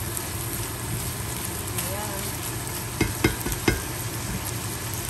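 Sliced hotdogs and ham sizzling steadily in a frying pan as they are stirred with a silicone spatula. Three sharp knocks come about three seconds in.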